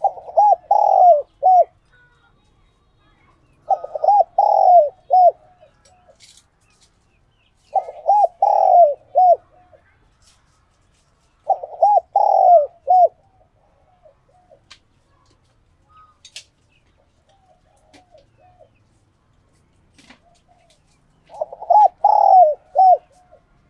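Spotted dove cooing, a tame decoy male's song. There are five phrases of several notes each, about four seconds apart, with a gap of about eight seconds before the last. Between the phrases there are only faint short notes.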